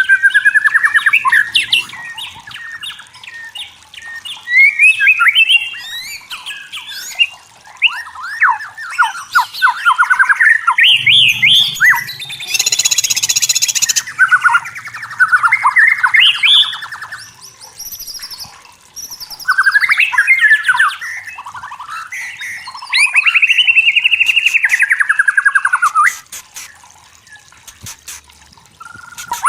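White-rumped shama singing a loud, varied song of quick whistled phrases, rapid trills and slurred notes, with a harsh buzzing note about halfway through. The song drops away briefly near the end.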